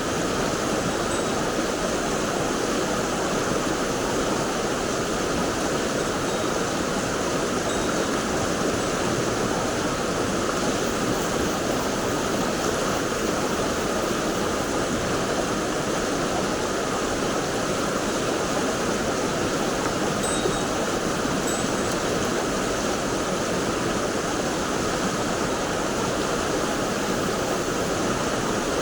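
Mountain stream water rushing, a steady, unbroken noise.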